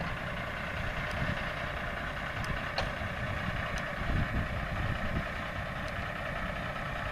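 Big-rig truck engine idling steadily.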